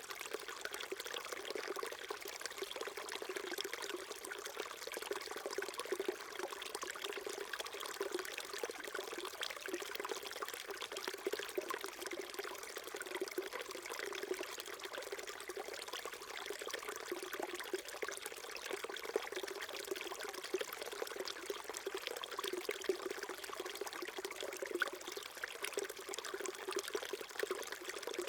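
A small mountain stream flowing steadily, water trickling and gurgling over rocks.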